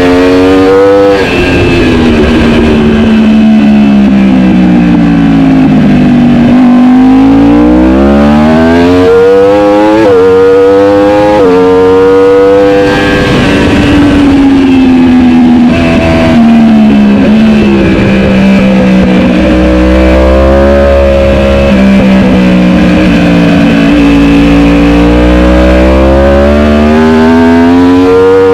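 Superbike engine at race pace, loud throughout: the revs fall away under braking and downshifts, then climb through the gears, several times over, with a long low stretch in the middle before rising again near the end.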